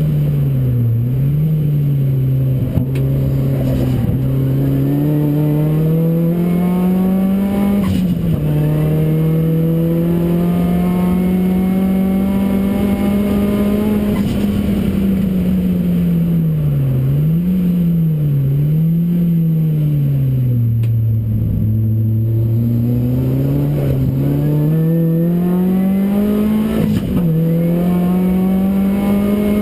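Ford Racing Puma's modified Focus RS engine under hard acceleration, its note climbing through the revs and dropping sharply at each upshift. In the middle there are quick rev blips on downshifts as the car slows for a corner, then it pulls up through the gears again.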